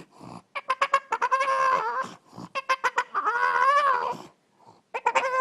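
Bird calling loudly: two long, wavering pitched calls, each opening with a quick stutter of short notes.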